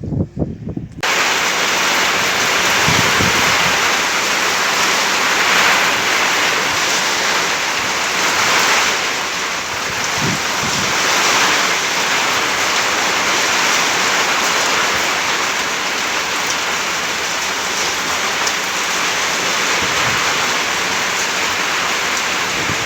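Heavy rain pouring down steadily in a storm, a dense hiss that starts suddenly about a second in.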